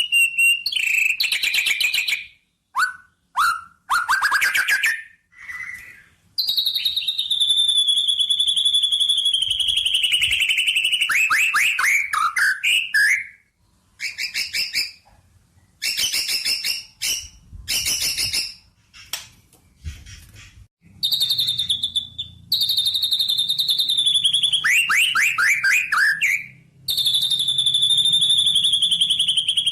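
A songbird singing: long, fast trills that slide down in pitch over several seconds, alternating with short chirps and brief pauses.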